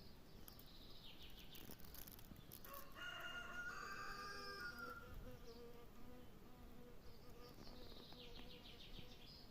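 Faint outdoor ambience: a rooster crows once, a call of about a second and a half starting some three seconds in, against a low background of insect buzzing and bird chirps.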